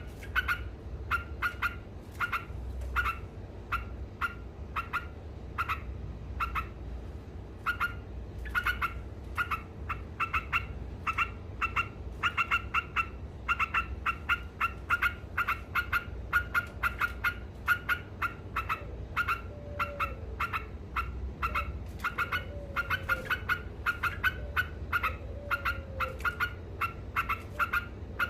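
Yellow-vented bulbul (trucuk) chattering continuously: a long, unbroken string of short, sharp, repeated notes, several a second, the rapid 'ngekek' call that bird keepers prize.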